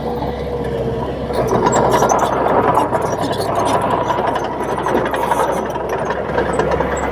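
Crawler bulldozer's diesel engine running steadily, with a steady high whine and scattered light metallic clicks.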